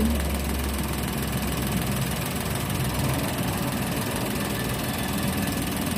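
Toyota Wigo's small three-cylinder petrol engine idling steadily, heard from under the open hood; the car has logged an ignition-coil misfire code. A strong low hum fades about two seconds in.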